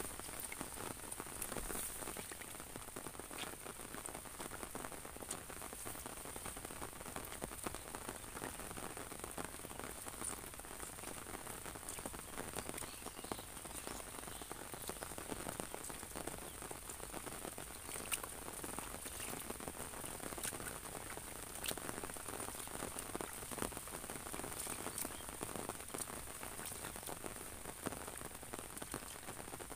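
Steady rain pattering on an umbrella held overhead and on the rice paddy around it, with scattered sharper single drops striking the umbrella.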